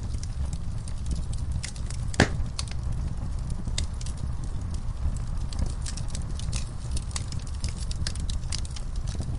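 Wood fire burning in a fireplace: a steady low rumble of flame with frequent irregular crackles and snaps, and one louder pop about two seconds in.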